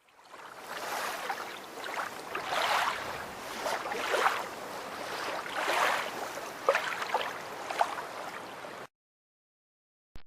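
Water splashing and sloshing in irregular surges, stopping suddenly near the end.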